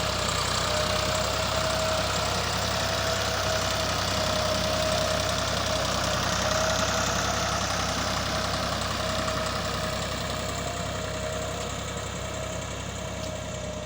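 Massey Ferguson tractor engine running steadily, with a steady high whine over the engine noise; it eases off slightly near the end.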